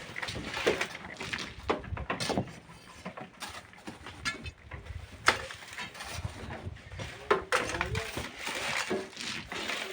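Irregular knocks and scrapes from miners' hand tools working stone and sand, with two sharper strikes about five and seven seconds in.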